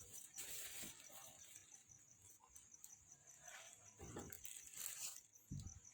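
Faint, steady cricket chirping, a high rapid pulsing, with a few soft knocks from the cages being handled.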